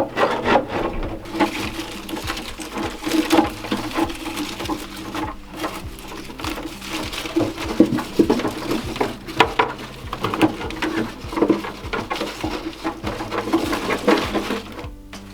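Dry plum tree branch rustling, scraping and clicking as it is pushed down into a large vase and set in place, with many irregular small knocks of twigs and wood.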